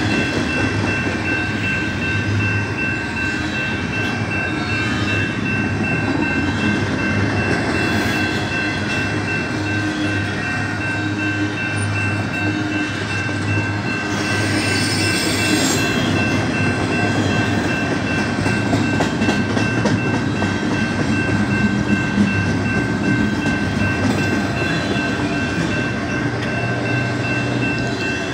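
BNSF double-stack container train's well cars and autoracks rolling past close by: a steady rumble and clatter of steel wheels on rail, with two steady high tones running underneath. There is a brief brighter hiss about halfway through.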